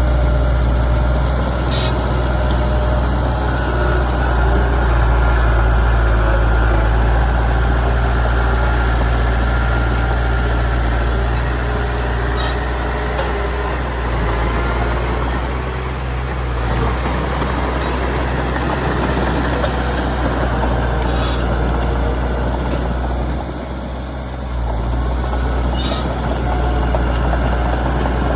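Diesel engine of a Komatsu D31PX crawler bulldozer running steadily with a deep hum, with a few sharp metallic clanks scattered through, and a brief drop in level near the end.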